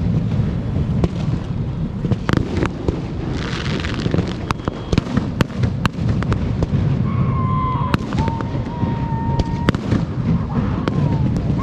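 Fireworks show: a rapid run of bursts and sharp cracks over a continuous low rumble, with a crackling shower about three and a half seconds in and a wavering high whistle from about seven seconds in.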